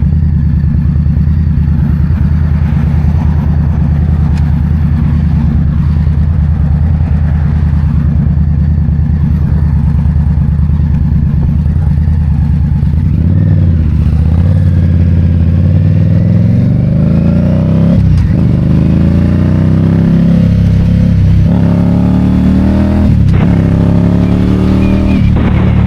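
2022 Indian Scout Bobber's V-twin engine on the move: a steady cruising note for about the first half, then rising in pitch as the bike accelerates, broken by short dips at each of about four upshifts.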